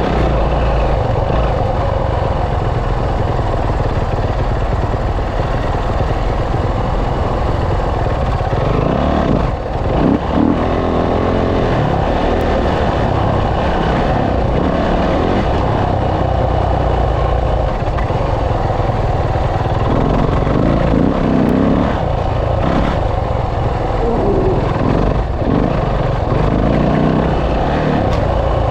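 Dirt bike engine running under load, its pitch rising and falling with the throttle, mixed with steady wind rush on a helmet-mounted action camera. Loudness dips briefly about ten seconds in.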